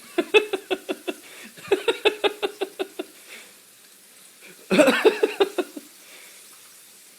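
A young child's voice making quick, repeated short syllables in three brief runs, about six a second.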